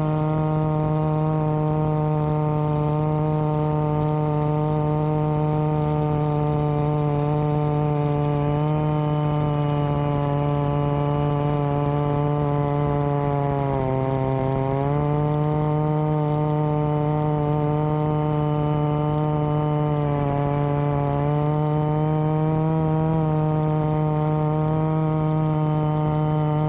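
Chainsaw running steadily at high revs, ripping a log lengthwise in a chainsaw mill. The pitch sags briefly about halfway through and again around two-thirds in as the cut loads the engine.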